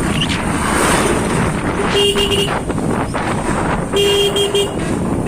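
A vehicle horn beeping in two quick clusters of short toots, about two seconds in and again about four seconds in. Under it runs a steady rush of wind and road noise from riding.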